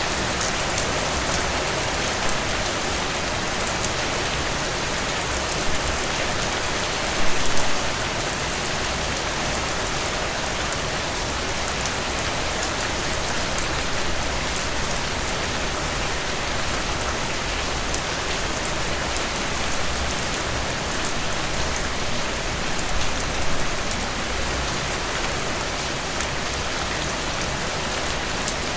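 Steady rainfall: a dense, even hiss of rain with individual drops ticking through it, swelling briefly louder about a quarter of the way in and again near the end.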